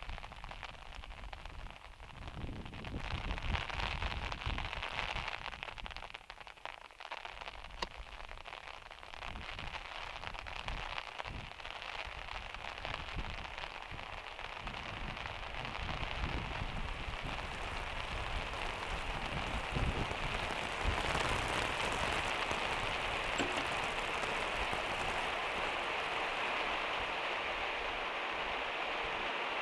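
Heavy rain pattering on a van's metal roof, heard from inside: a dense spatter of drops that grows steadier and a little louder about halfway through.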